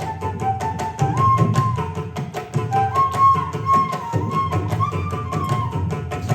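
Carnatic instrumental music: a flute plays a melody of held notes with gliding ornaments while hand drums keep up fast, dense strokes underneath.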